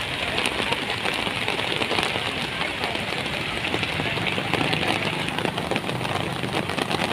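Steady rain falling, a dense even hiss of many small drop impacts.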